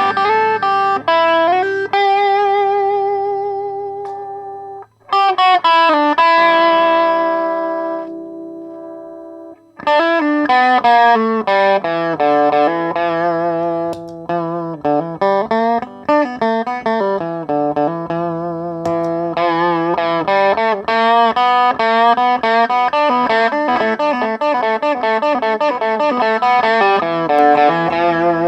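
Distorted electric guitar played through an overdrive/distortion pedal: held notes with vibrato, a note left to ring and fade about eight seconds in, then busier lines and chords.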